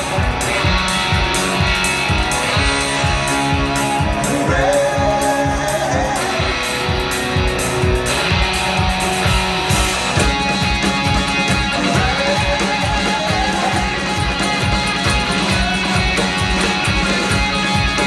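Rock band playing live: electric guitars over a steady, even drum beat.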